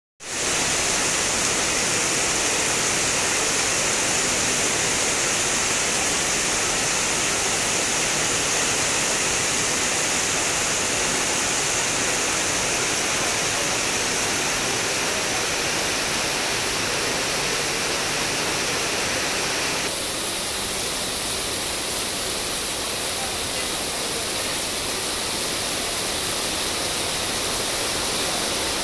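Heavy tropical rain pouring down in a dense, even hiss. About two-thirds of the way through, the hiss turns slightly quieter and less bright.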